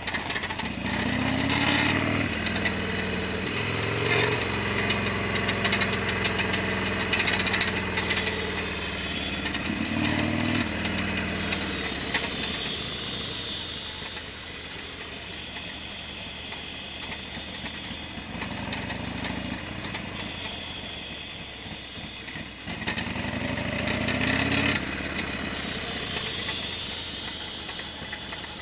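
Harley-Davidson Sportster XL1200 air-cooled V-twin running on the move, its pitch rising under throttle several times and dropping back between, as when pulling away and easing off.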